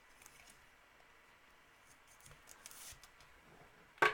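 Faint rustling and small ticks of trading cards being handled, with a sharper click near the end.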